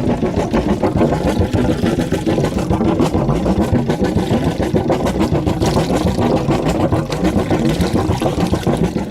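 Yacht's inboard marine engine idling in neutral, with a fast, even pulsing beat, and the wet exhaust splashing out the cooling water. The water coming out shows the engine's raw-water cooling is working.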